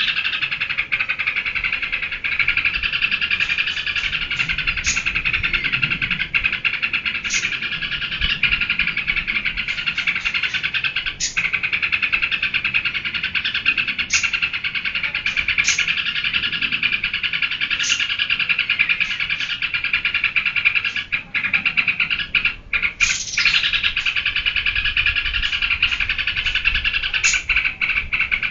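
Yellow-vented bulbul (trucukan) singing nonstop, a dense unbroken run of chirping notes, with sharp high notes cutting in every second or two.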